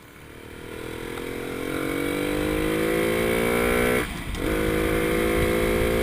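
Motorcycle engine accelerating: it grows louder and rises in pitch for about four seconds, drops out briefly at a gear change, then pulls again at a steadier pitch.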